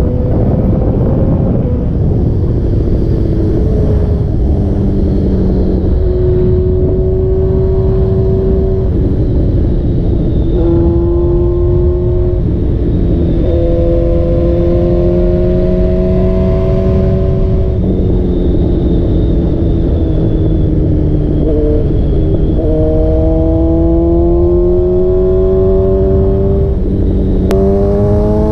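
2023 Honda CB1000R inline-four engine running through Black Widow headers and a Leo Vince exhaust. Its pitch climbs and drops again and again as the throttle opens and closes, with sudden steps in pitch between pulls. A heavy rush of wind on the microphone runs under it.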